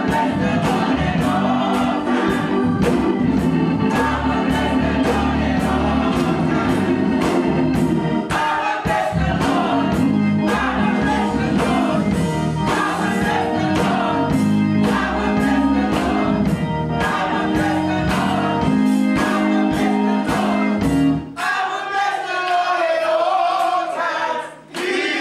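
Gospel church choir singing over a band with a steady beat and a strong bass line. About 21 seconds in, the band drops out and only the voices carry on.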